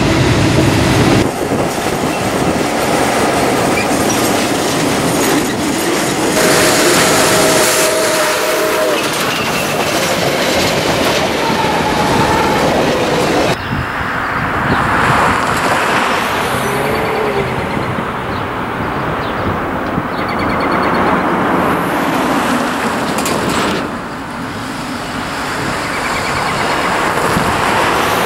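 Freight trains passing in several cut-together stretches: diesel locomotives and rolling railcars with wheel clatter. A train horn sounds for about two seconds, roughly seven seconds in.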